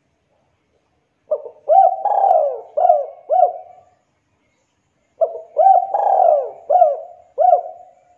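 Spotted dove (tekukur) cooing: two phrases of about five coo notes each. The first phrase starts a little over a second in, and the second about four seconds later.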